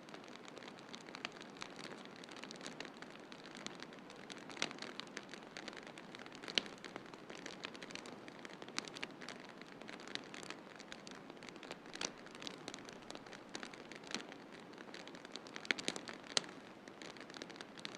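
Wood fire crackling: irregular sharp pops and snaps, a few of them louder, over a steady hiss.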